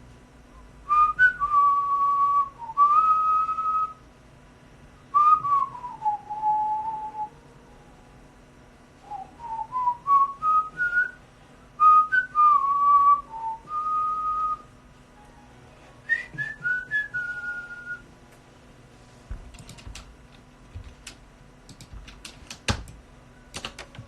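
A person whistling a melody in five short phrases, the pitch stepping and sliding between notes. A few sharp clicks follow in the last seconds, one louder near the end.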